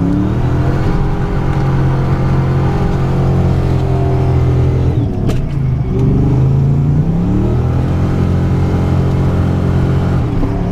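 1987 Ford Mustang GT's 5.0-litre V8 revving up and held at high revs, with a brief drop and a click about five seconds in before it climbs back up and holds again.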